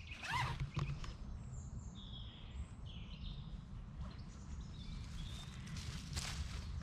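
Woodland birds calling with a few short chirps over a steady low rumble of outdoor background noise, and a brief rustle near the end.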